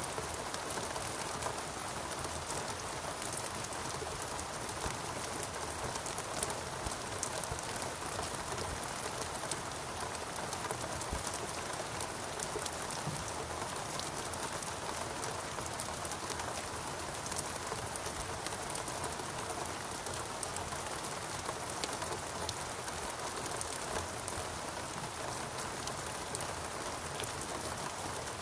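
Steady rain falling in a rainforest, an even hiss with many small drop ticks throughout.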